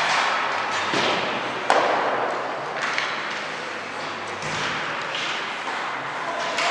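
Sharp knocks and thuds of hockey sticks and puck during play in an arena, a few hard hits, the loudest about a second and two seconds in, over a steady hiss of ice and crowd noise.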